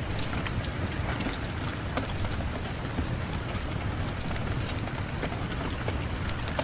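Fireplace fire crackling, with frequent sharp irregular pops and snaps over a steady low rush of wind.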